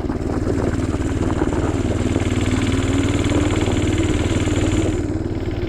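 Minibike's small engine running under throttle while its rear tire spins in deep snow on the ice, getting no traction. The engine pitch sags a little about two seconds in, then climbs back up.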